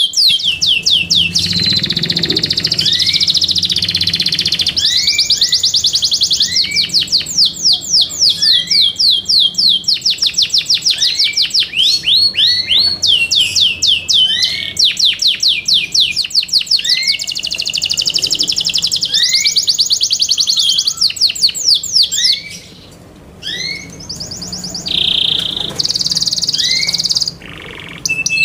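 Yorkshire canary singing a long song of fast trills and rolls of rapidly repeated high notes, with a brief break about two-thirds of the way through and a steady held whistle near the end.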